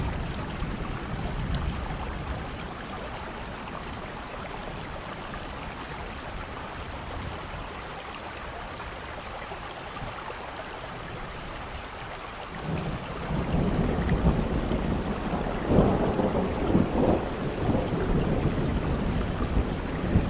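Steady rain falling, with thunder: a rumble dies away in the first couple of seconds, and another rolls in about two-thirds of the way through and carries on to the end, louder than the rain.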